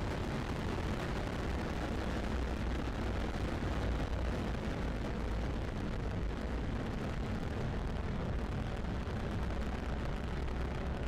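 Falcon 9 first stage's nine Merlin engines firing during ascent: a steady, deep rumbling noise with no breaks.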